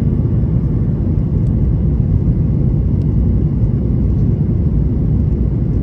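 Steady cabin drone of a Boeing 737-800 in flight, the CFM56 engines and rushing airflow heard from inside the cabin as a deep, even rumble.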